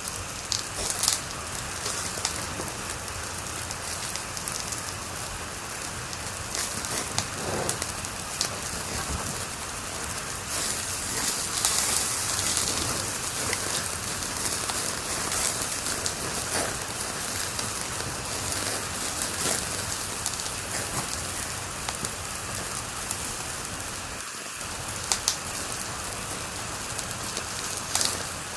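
Wood fire crackling in a fireplace: a steady hiss with scattered sharp pops and snaps, a few louder ones about a second in, around the middle, and near the end.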